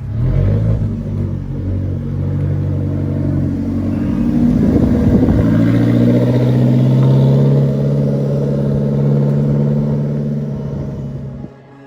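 A performance car's engine running loudly with its exhaust note held at a fairly steady pitch, swelling in the middle, then cut off abruptly near the end.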